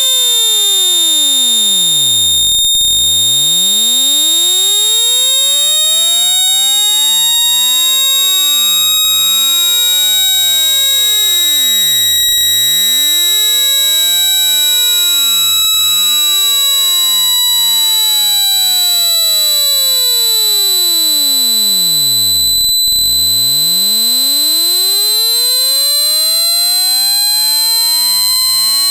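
Loud electronic speaker-cleaning tone made to shake water out of a phone speaker: a steady, piercing high tone that creeps slightly upward, over fainter tones that keep sweeping down and back up in pitch.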